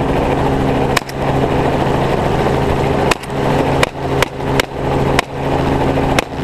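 Helicopter engine and rotor running steadily, with a rifle fired from the helicopter about seven times: one shot about a second in, then a quicker string of shots from about three seconds on.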